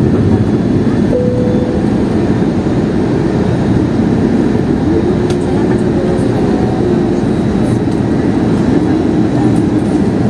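Steady loud rumble inside the cabin of an Airbus A321 jet airliner as it comes in to land.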